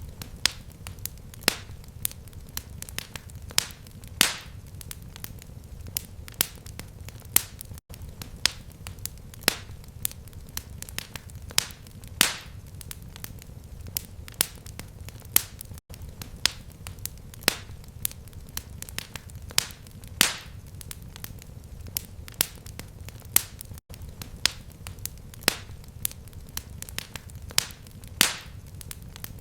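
Fireplace fire crackling: irregular sharp pops and snaps, several a second and some much louder than others, over a steady low rumble of the flames. A very brief drop-out comes about every eight seconds.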